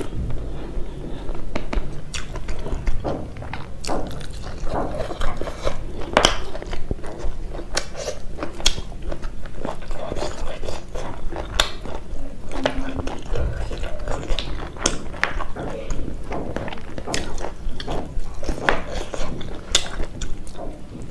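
Close-miked chewing of rice and buffalo meat curry, with many irregular wet mouth clicks and smacks.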